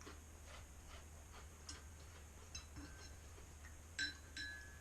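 Faint clicks and light clinks of dishes being handled, with two sharper, ringing clinks about four seconds in, over a low steady hum.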